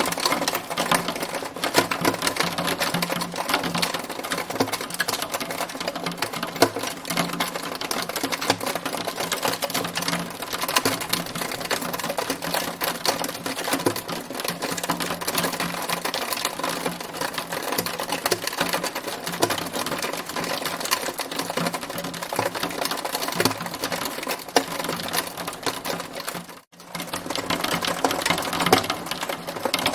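Hail storm: hailstones falling thick and fast in a dense, rapid ticking clatter, with a momentary break near the end.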